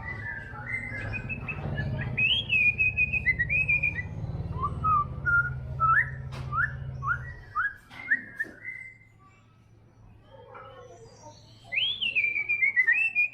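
White-rumped shama singing: a string of clear whistled phrases with notes sliding up and down, a pause of about two seconds, then a falling whistled phrase near the end. A low hum sits beneath the song and stops about halfway through.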